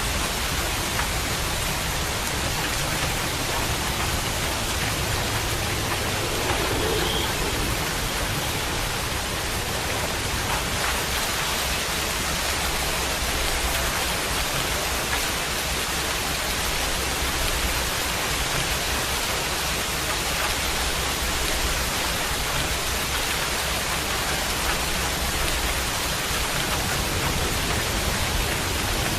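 Steady rain falling, an even unbroken hiss of drops on surfaces.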